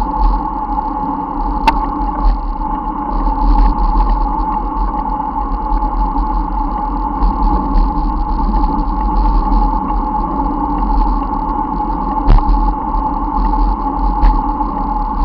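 Steady wind and road noise picked up by a camera on a moving bicycle, with a deep fluctuating rumble and a couple of sharp clicks, one about two seconds in and one near the end.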